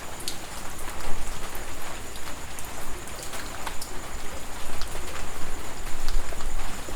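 Steady heavy rain, with many separate drops striking sharply close by, over a faint steady high tone.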